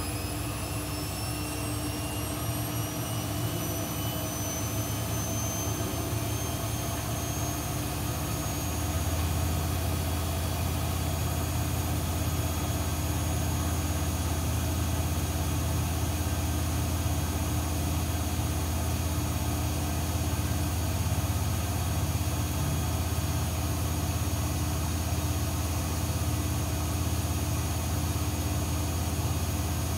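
AEG Lavamat 1400 front-loading washing machine on a spin: the motor's whine rises in pitch over the first few seconds, then holds steady at full speed with a deep drum hum that grows louder about nine seconds in.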